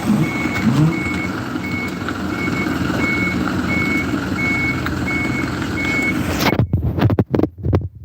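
A car's electronic warning beep repeating about every 0.7 seconds over engine and road noise inside the cabin. About six and a half seconds in, the sound cuts out abruptly, with a few knocks.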